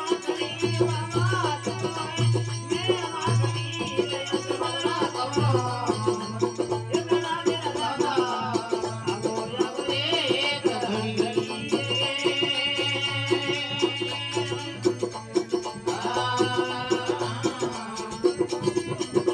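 Rajasthani desi bhajan music: a steady drone from the folk veena (tandura), with a wavering melody line over it and a rattling percussion rhythm.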